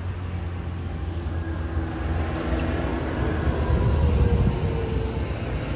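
A motor vehicle's engine passing by: a low rumble that grows louder to a peak about four seconds in, with a faint hum that slowly falls in pitch.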